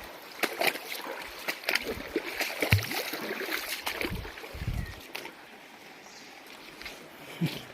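Flowing stream water with scattered knocks and scuffs of footsteps on rocks, and a low thump on the microphone about four and a half seconds in.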